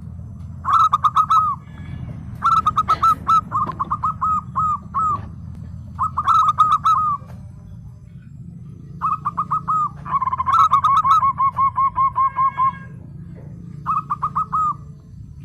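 Zebra dove (perkutut) cooing in about six bursts of rapid staccato notes, each note a short coo with a downward hook. The longest run comes near the middle. Under it runs a steady low background rumble.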